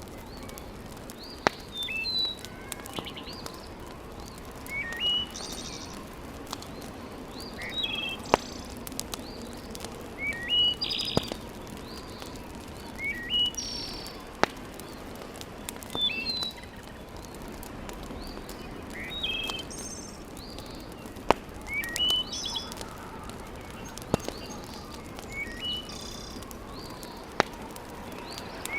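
A bird outside sings a short phrase of quick rising chirps about every three seconds. Under it a wood fire in a fireplace hisses steadily, with a handful of sharp single pops that are the loudest sounds.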